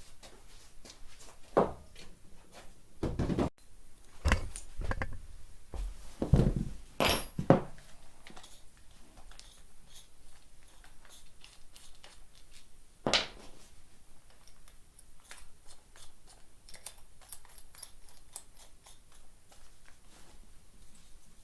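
Workshop handling noise: scattered clicks, clinks and knocks, with several louder thuds in the first few seconds and one more about thirteen seconds in, as tools and parts are moved about.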